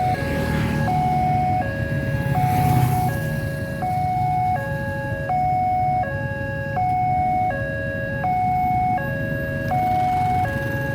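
Railway level-crossing warning alarm sounding a steady two-tone electronic signal, alternating between a higher and a lower tone about twice a second, which means a train is approaching. Underneath it is a steady low engine rumble, with a louder rushing noise swelling about two to three seconds in.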